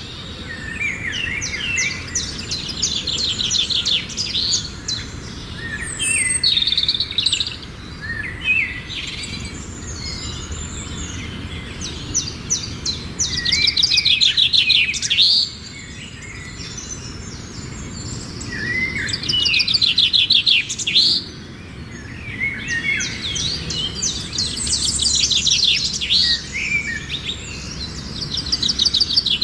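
Songbirds singing. Phrases of fast trilled notes and swooping whistles repeat every few seconds over a steady low background hum.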